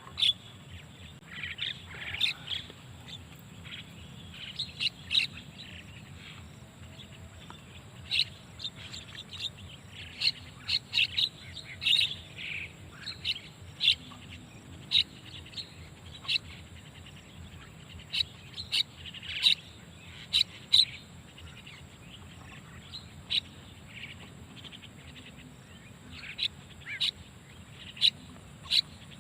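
Starling calls: short, sharp chirps coming in irregular clusters every second or so, the lure call used to draw wild starlings in.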